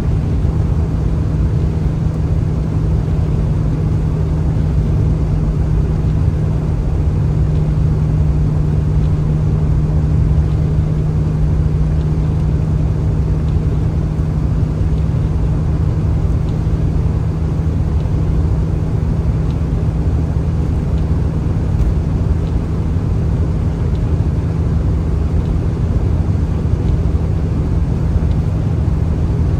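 A vehicle driving at a steady speed: a constant low drone of engine and road noise with a steady hum.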